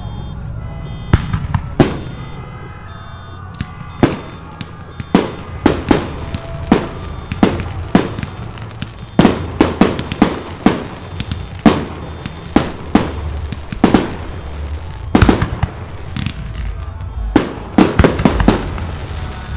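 Aerial firework shells bursting with sharp bangs in quick, irregular succession, sometimes two or three a second, each trailing off briefly over a steady low rumble.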